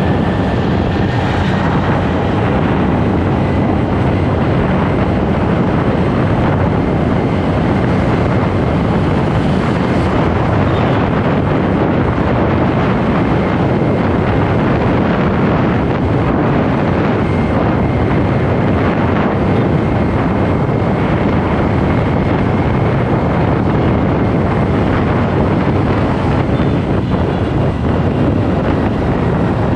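Steady wind rush on the microphone of a moving motorcycle, mixed with the bike's running and road noise.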